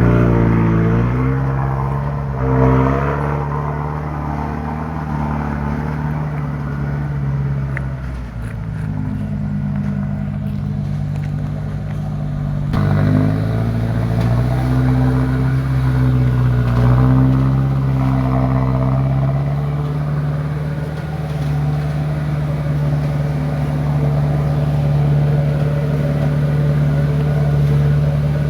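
Diesel engine of a Mitsubishi Canter truck, laden with about seven tons, working hard up a steep rocky climb. Its pitch falls and rises several times, as around gear changes, near the start, around eight seconds in and again near thirteen seconds.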